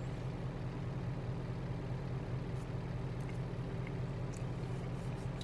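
Truck's diesel engine idling steadily, a low even hum heard from inside the parked cab.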